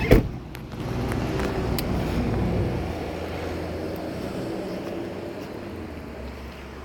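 A single sharp thump just after the start, then the steady low rumble of a car running, slowly fading.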